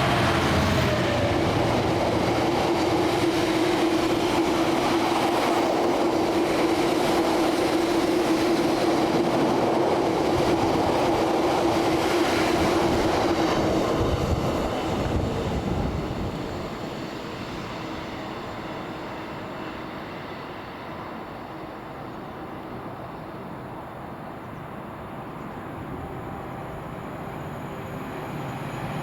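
A train passing by, with loud rolling wheel-and-rail noise and a steady whine. It dies away over a few seconds about halfway through, leaving a lower background rumble.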